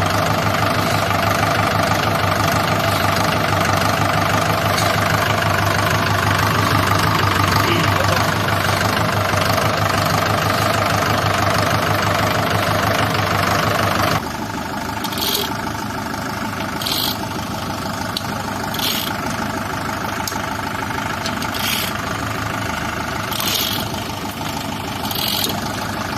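Diesel engine of a tractor or backhoe running steadily. About halfway through the sound changes abruptly to a quieter engine with short high squeaks repeating every second or two.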